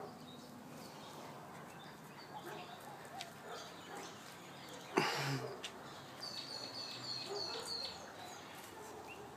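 Quiet outdoor ambience with small birds chirping in quick high notes a little after halfway. A single short, sharp noise stands out about five seconds in.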